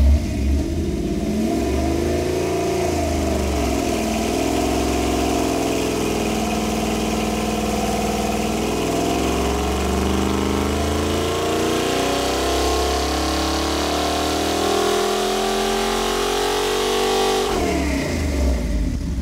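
Rebuilt Chevrolet 283 small-block V8 running a dyno pull under load. After a short rise and dip in revs in the first few seconds, the revs climb steadily for about thirteen seconds, then drop back sharply near the end.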